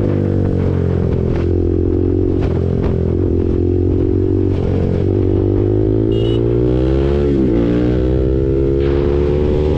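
KTM RC 390's single-cylinder engine running through an SC Project aftermarket exhaust while riding, held at a fairly steady engine speed. The pitch dips and climbs back about seven seconds in.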